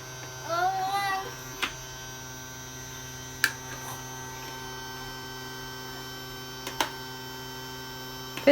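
Vacuum cleaner running with a steady hum, with three light clicks or knocks over it.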